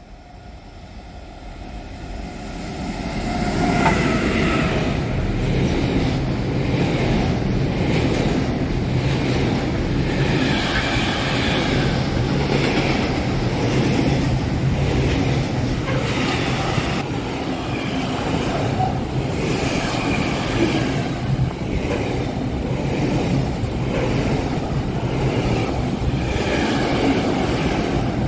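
A train approaching and then passing close by. It builds up over the first few seconds, then holds steady and loud with a regular beat about every two seconds as the cars go past.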